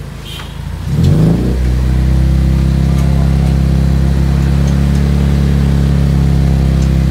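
Mazda 2 Skyactiv's four-cylinder engine through an ORD full aftermarket exhaust system. It runs at idle, revs up quickly about a second in, then holds a steady, louder, higher speed.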